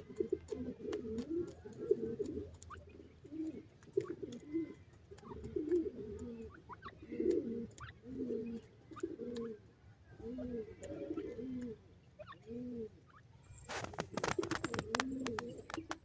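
Low, soft cooing bird calls repeated roughly once a second, with small clicks, then a loud burst of crackling, rustling noise about fourteen seconds in.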